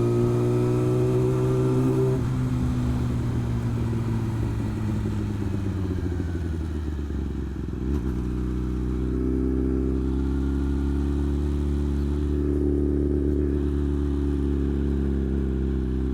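Motorcycle engine running at steady road speed with wind rush; the revs ease off about two seconds in, then climb slowly again from about halfway through.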